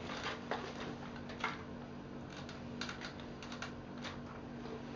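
Light, irregular plastic clicks and taps from Lego Technic parts being handled as the trailer is set up as a ramp, over a steady low hum.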